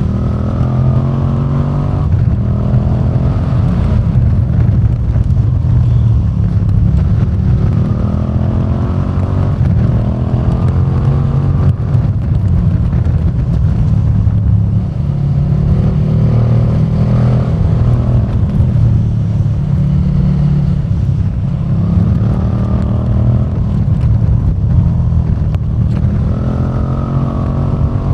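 KTM 1290 Super Duke R's V-twin engine running under way, the pitch rising in several accelerating sweeps with steadier running between them.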